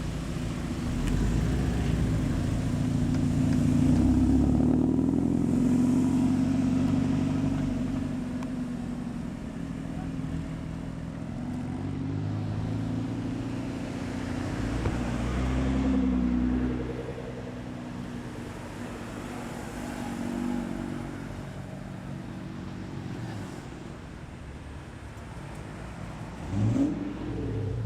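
Car engines running as several cars drive past one after another, the loudest passing about four to six seconds in and another around sixteen seconds, with a brief rising rev near the end.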